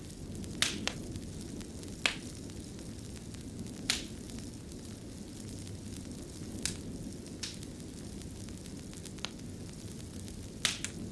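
Wood fire burning in a fireplace: a steady low rumble with sharp, irregular crackles and pops, a pair close together near the end.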